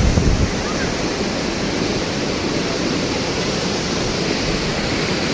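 Thomson's Falls, a 74-metre waterfall, heard close up: a loud, steady rush of falling water.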